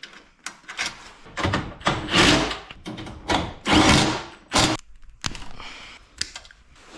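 Hand-work noise while a garage door opener powerhead is being swapped: a run of sharp knocks and clunks, with two longer stretches of rattling and scraping about a second and a half and three and a half seconds in.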